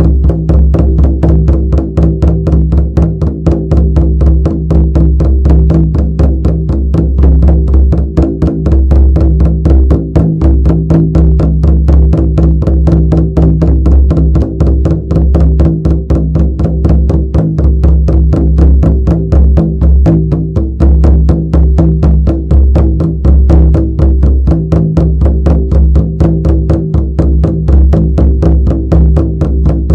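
Shamanic frame drum beaten in a fast, steady, unbroken rhythm, each stroke carrying a deep, sustained ring into the next.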